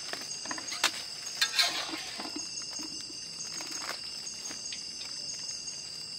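Insects chirring steadily in several high, constant tones, with a few sharp clicks and knocks about one to two seconds in.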